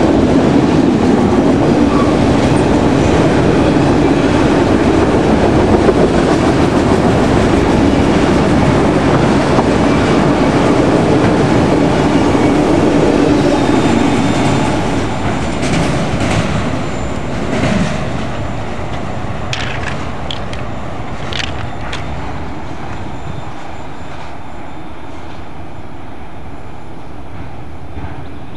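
Freight train of autorack cars passing at speed: a steady rumble and clatter of steel wheels on rail that fades from about halfway as the last cars go by and the train draws away, with a few sharp clicks as it recedes.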